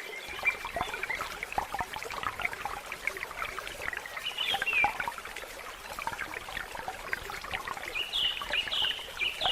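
Water trickling and splashing in small uneven bursts, with a few short high chirps about halfway through and again near the end.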